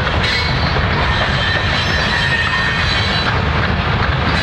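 Loaded covered hopper cars of a grain train rolling past: a steady rumble of steel wheels on rail, with a thin, high-pitched wheel squeal running over it.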